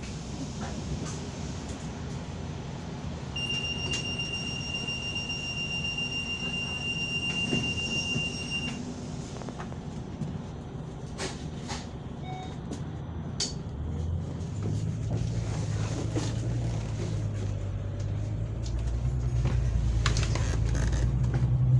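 Ride noise of a moving vehicle heard from inside. A high, steady squeal lasts about five seconds early on, then a low engine drone builds and grows louder near the end.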